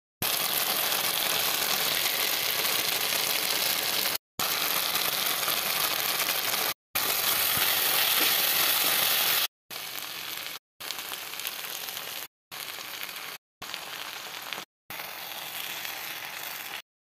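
Food frying in oil in a pan, a steady sizzle, heard in short clips that cut off abruptly. It is louder at first and quieter from about halfway through.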